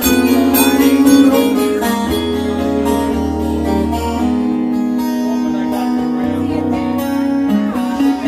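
Live music: guitar playing an instrumental passage over a steady low bass line, without singing.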